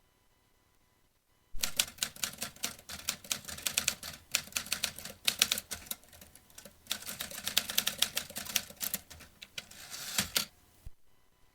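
Vintage manual typewriter being typed on: rapid key strikes in quick runs, starting about a second and a half in, with a short lull midway and a single last strike near the end.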